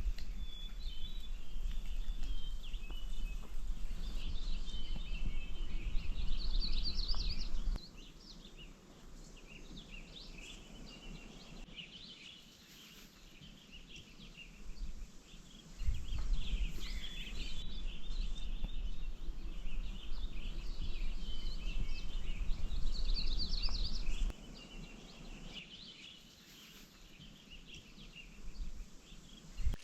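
Songbirds singing at camp: many chirps and short trills overlap, with a quick rising trill twice. A low rumble comes and goes underneath in two long stretches.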